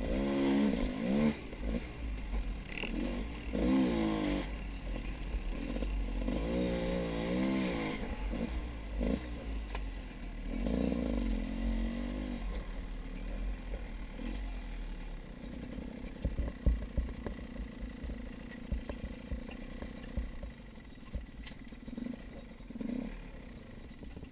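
A motor running with a low rumble, its pitch rising and falling in several surges of a second or two each, with some clatter, growing quieter toward the end.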